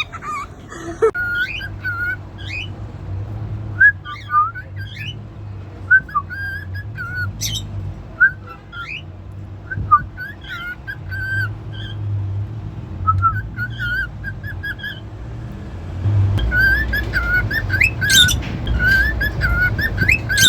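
Cockatiel whistling short, warbling phrases with rising and falling pitch, repeated every second or two. The phrases grow louder and more frequent near the end.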